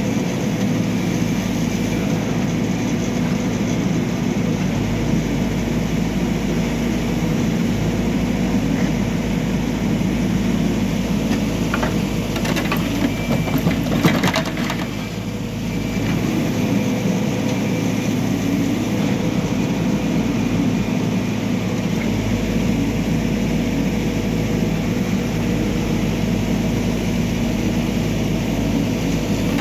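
Backhoe loader's diesel engine running steadily, with a short spell of cracking and knocking about halfway through, one sharp knock the loudest.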